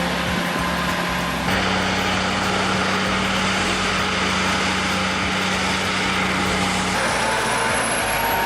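Heavy truck engines running steadily. The sound changes abruptly about a second and a half in and again near the end.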